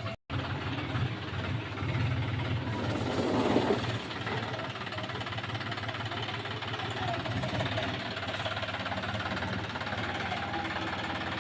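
John Deere four-wheel-drive tractor's diesel engine running steadily, a little louder for a couple of seconds near the start.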